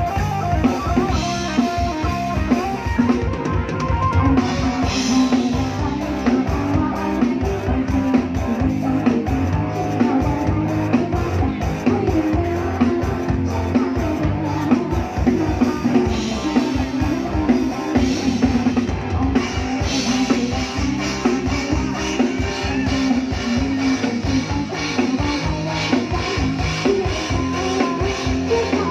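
Live band music with a steady drum-kit beat, bass drum and guitar.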